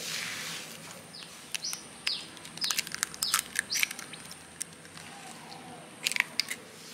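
A small bird chirping in the background, a run of short, high, falling chirps. At the start a spatula scrapes through stiff dough in a glass mixing bowl, and a few sharp clicks near the end come from eggs being broken into the bowl.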